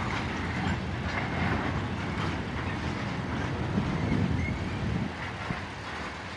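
Tank cars of a long freight train rolling slowly past, steel wheels clicking over the rail joints over a steady low rumble.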